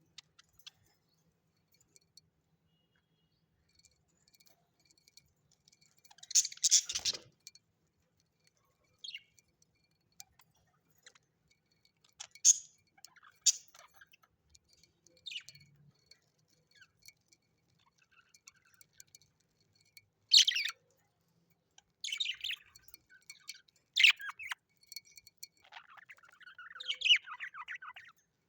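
Birds giving short, sharp, high-pitched chirps and calls in scattered bursts, with quiet gaps between them and a longer spell of chattering near the end.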